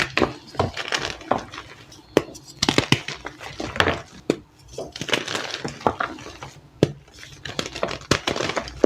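Powdery blocks of reformed gym chalk being crushed: irregular crunching and crumbling, with many sharp cracks.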